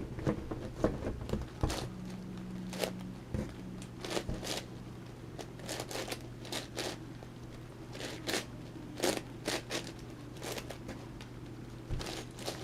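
Plastic layers of an 11x11x11 Rubik's cube clicking and scraping as they are turned by hand, in irregular clacks a couple of times a second.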